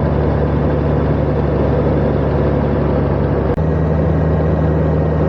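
Honda Gold Wing motorcycle engine running at a steady cruise, under wind and road noise. The engine note shifts slightly about three and a half seconds in.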